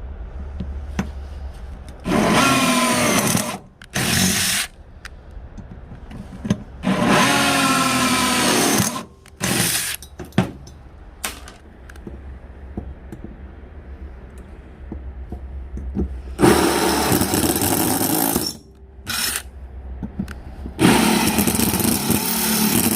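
Electric drill boring holes in the steel secondary-air preheat tube of a wood stove, in repeated bursts of one to two seconds, its pitch sagging and wavering as the bit cuts.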